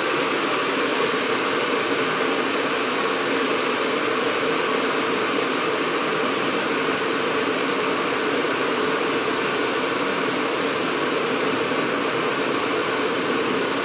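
Bosch Design Line 2,400 W stainless steel electric kettle heating just over half a litre of water, making a steady rushing hiss as the water comes up towards the boil.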